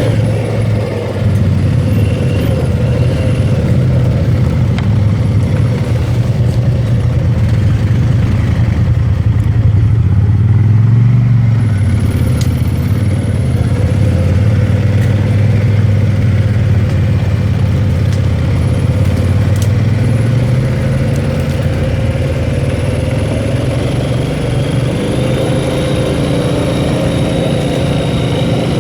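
ATV engine running under way, heard from on board, its pitch rising and falling with the throttle: it climbs about ten seconds in and again near the end.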